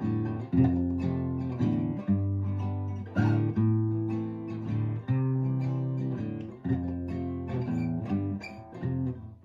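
Guitar strumming a chord progression, chords struck roughly once a second and left to ring, as the instrumental introduction to a song.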